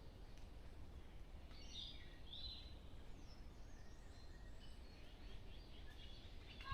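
Faint distant birdsong: a few short chirps and trills, mostly about a second and a half to two and a half seconds in, over a low steady background rumble.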